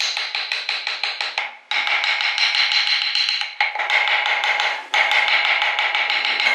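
Rapid, continuous tapping of a carving tool on wood, with a steady high whine underneath. It stops abruptly and starts again three times.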